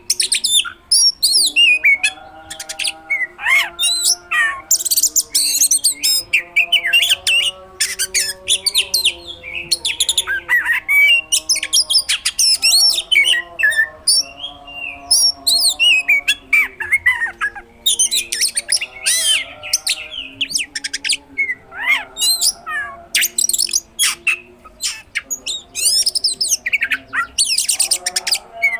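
Oriental magpie-robin (kacer) singing continuously and vigorously in fast, varied phrases of sharp whistles, sweeps and chatter, its song packed with mimicked material and loud 'tembakan' shot-like notes, with only brief pauses.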